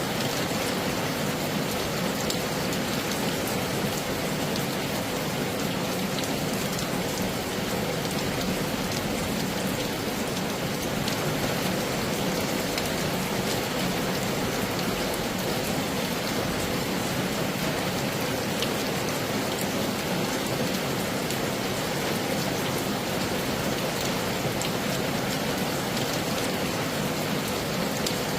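Heavy rain falling steadily: a dense, even hiss with countless individual drop hits ticking through it, unchanging in strength.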